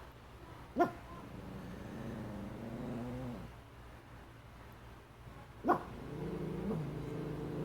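A dog growling in long, low stretches, breaking twice into a short sharp bark, about a second in and again near six seconds. The growling is the dog alarmed by a shadow it does not recognise.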